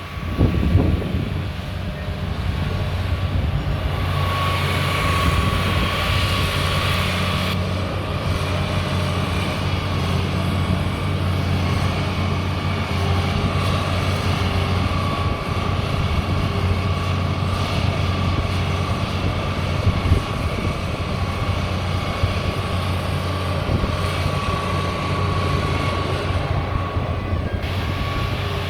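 Excavator engine running steadily under a low drone, with a steady high whine over it.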